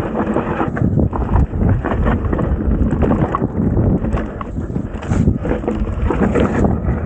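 Wind buffeting the action-camera microphone while a mountain bike rattles and knocks over rough trail on a fast descent.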